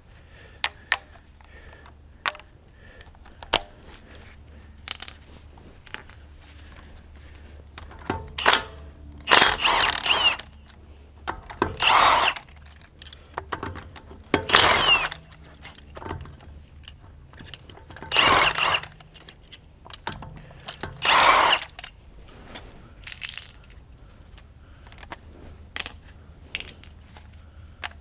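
Wheel lugs being loosened with hand tools: scattered metallic clinks and clicks, with about six short, loud, noisy bursts between roughly 8 and 22 seconds in.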